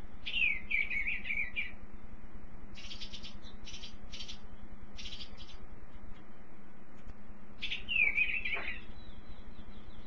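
A songbird singing two short warbled phrases, each opening with a falling note, one at the start and one about eight seconds in. Between them come a few short, harsh, hissy notes. A faint steady hum runs underneath.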